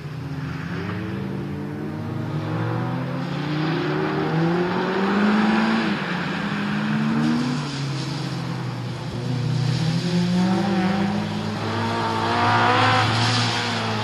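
Citroën Saxo VTS rally car's engine revving hard, its pitch climbing and dropping several times with throttle and gear changes. It is loudest near the end.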